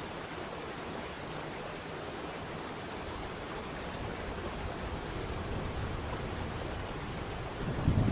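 Waterfall: a steady rush of falling water. A low rumble swells and gets louder near the end.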